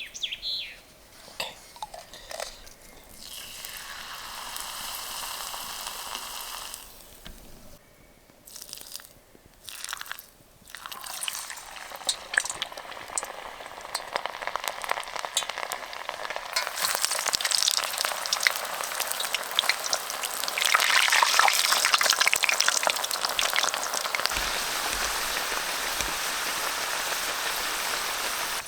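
Food frying in hot oil: a steady sizzle with crackling, cut into several short takes early on, then growing louder and busier past the middle.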